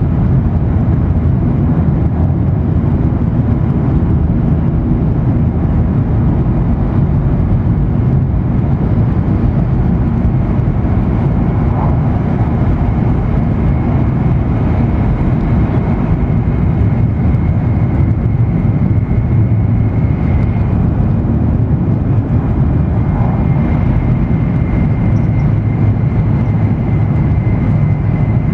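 Steady low rumble of an E7 series Shinkansen running at speed, heard inside the passenger cabin. A faint, thin high whine comes in about a third of the way through and carries on over the rumble.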